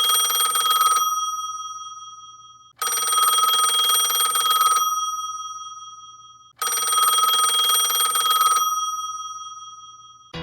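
Telephone-bell alarm ringing in bursts of about two seconds every four seconds or so, a rapid trill in each burst with a fading tone hanging on between them: an alarm going off. Three bursts are heard, the first ending about a second in.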